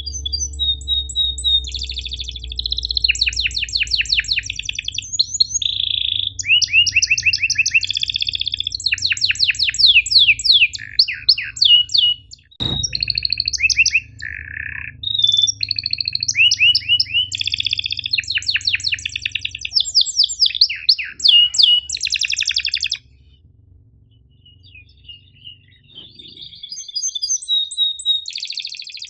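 Domestic canary singing a long song of rapid chirps and rolling trills, high-pitched and fast. The song breaks off for a few seconds near the end, with only a few faint notes, then resumes. There is a single sharp click about midway.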